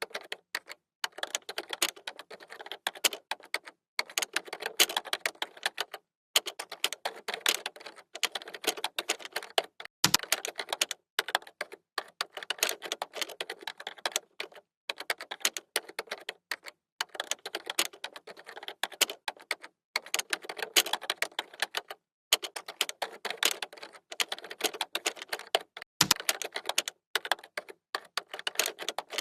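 Computer keyboard typing: quick runs of key clicks broken by short pauses, with a heavier key stroke, like a space bar or enter key, about ten seconds in and again near the end.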